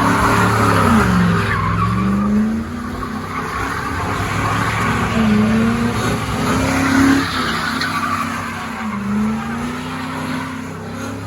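Car engine revving, its pitch rising and falling several times, over a continuous screech of spinning, squealing tires.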